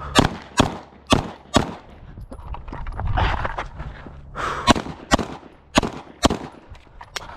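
Pistol fire in controlled pairs, two shots on each target: two pairs in quick succession, a gap of about three seconds, then two more pairs. These are strings of a practical-shooting drill.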